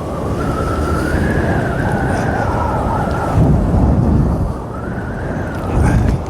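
Strong wind gusting over the microphone with a low rumble, and an eerie whistling howl that slowly rises and falls in pitch.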